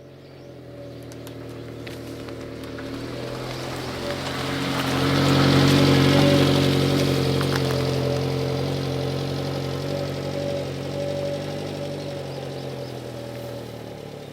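A vehicle engine at a steady pitch, growing louder to a peak about six seconds in and then slowly fading, as a vehicle approaching and passing by.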